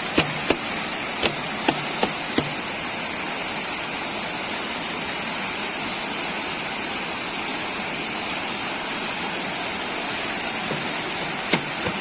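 Waterfall rushing in a steady roar of falling water, with a few light clicks in the first couple of seconds.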